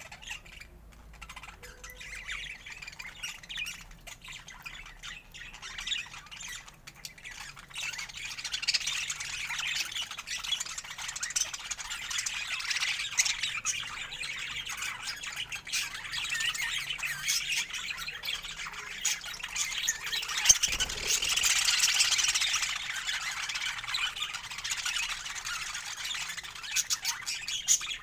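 Budgerigars chattering, a dense overlapping stream of chirps, warbles and squawks that grows busier and louder about a third of the way in.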